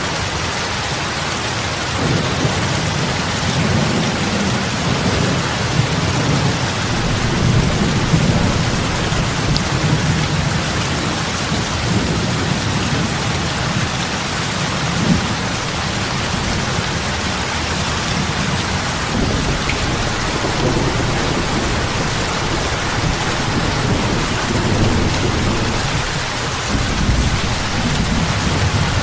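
Steady heavy rain falling on a lake's surface, an even hiss of drops on water, with a low rumble that swells about two seconds in and rises and falls underneath.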